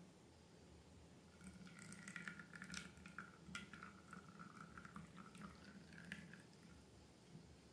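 Faint wet, sticky clicking and squishing of slime being handled, irregular and crackly, in a run lasting a few seconds that starts about a second and a half in.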